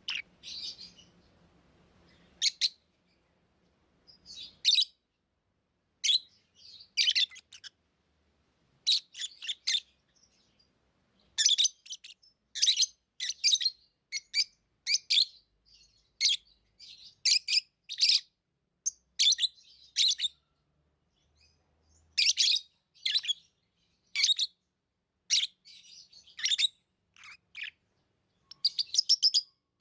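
Pet lovebirds chirping: short, sharp, high-pitched chirps in quick clusters separated by brief pauses. The calls come more thickly from about a third of the way in.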